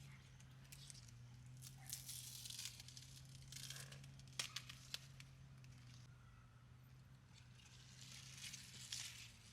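Faint rustling and crinkling, with a few sharp clicks, over a low steady hum.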